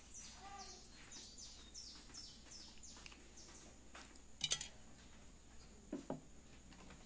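A small bird chirping a quick run of high notes, each sliding down in pitch, about three a second over the first three seconds. About four and a half seconds in there is a sharp click, the loudest sound, and a softer knock near six seconds.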